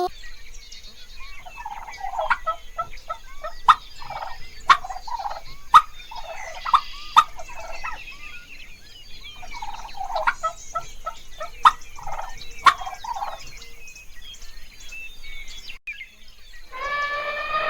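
Farm fowl calling in several bouts of rapid, short repeated notes, with small birds chirping high above and a few sharp clicks.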